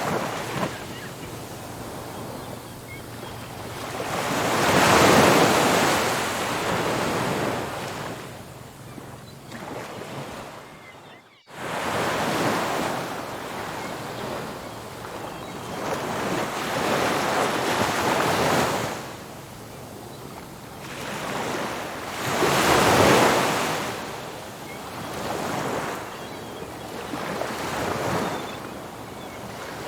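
Ocean surf: waves breaking and washing up a beach in slow surges, with the biggest breakers about five seconds in and again about three-quarters of the way through. The sound cuts out for a moment just before the middle.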